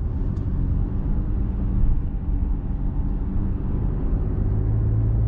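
Steady low road and engine rumble of a moving vehicle, heard from inside the cabin while cruising.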